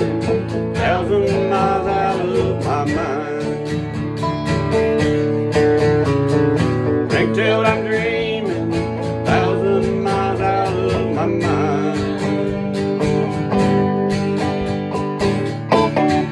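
Country music with a strummed acoustic guitar keeping a steady rhythm under held, bending melody notes, an instrumental passage at the close of the song.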